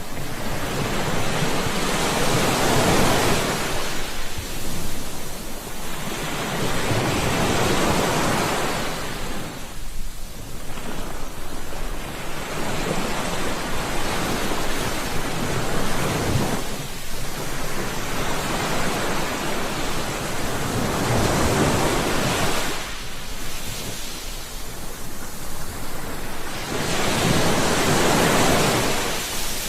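Sea surf washing onto a shore, the rush of the waves swelling and falling back every few seconds.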